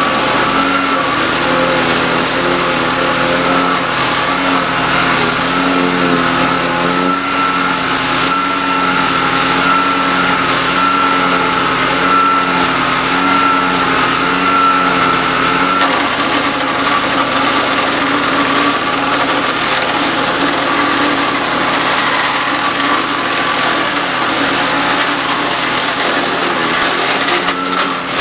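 Hyundai HYCH7070E-2 wood chipper's 208cc petrol engine running steadily at working speed while branches are fed in and chipped. Its note shifts slightly about halfway through as the load changes.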